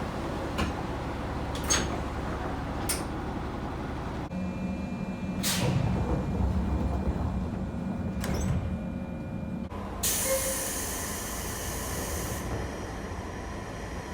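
Doors of JR local passenger trains sliding shut in several short takes over the train's steady hum: sharp knocks, a heavier thud about five seconds in, and a loud burst of air hiss from the door engine about ten seconds in.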